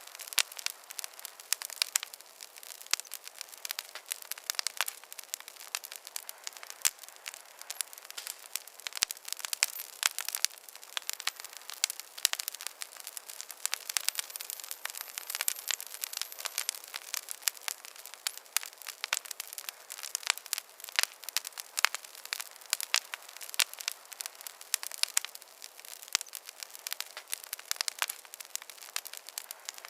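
Wood campfire burning with dense, irregular crackling and popping over a soft hiss.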